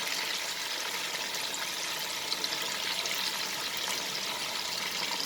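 Chicken pieces frying in hot oil in a kadai: a steady sizzle with light crackles.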